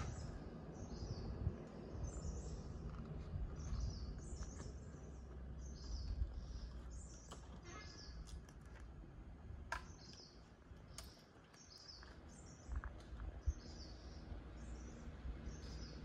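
A bird calling over and over, short high chirps repeating about one and a half times a second, over a low steady background rumble.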